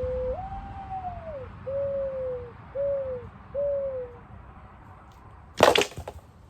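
A dove cooing: a long note, a higher note that slides down, then three shorter falling coos. About five and a half seconds in comes a sudden loud crash, the bird trap's stick slamming down as the pull string is yanked.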